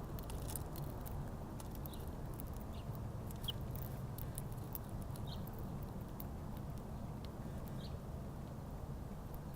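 Small birds giving a few short, high chirps, spaced a second or more apart, over a steady low rumble, with many light scattered ticks.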